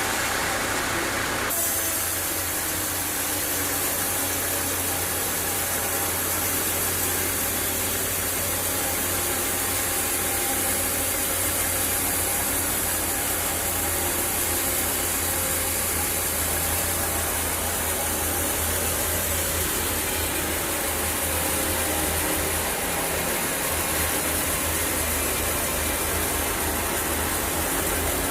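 Sawmill machinery running steadily, a low engine hum under a broad hiss; the sound changes abruptly about a second and a half in.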